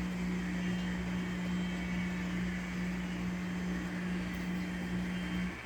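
HO-scale model train running on the layout: a steady electric motor hum with wheel and track noise. It cuts off suddenly near the end.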